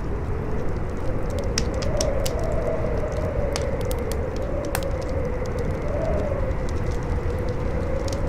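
Wind howling in a wavering tone that slowly rises and falls over a low rumble, with a wood fire crackling and giving off frequent sharp pops.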